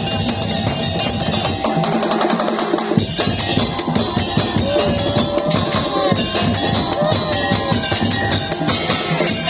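Madurese tong-tong percussion ensemble playing: fast, dense drumming and wooden knocking, with a wavering melody line over it in the middle. The bass drops out for about a second, around two seconds in.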